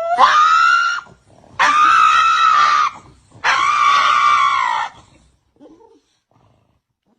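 An animal screaming: three long, high calls, each held for about a second, the first rising in pitch as it starts, then quiet after about five seconds.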